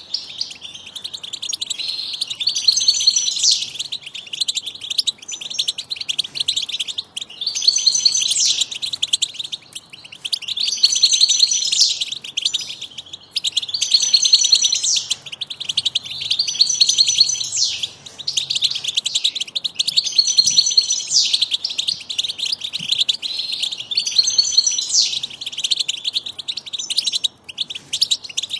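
Bird chicks chirping nonstop in high-pitched rapid calls, with a louder call phrase repeating every two to three seconds.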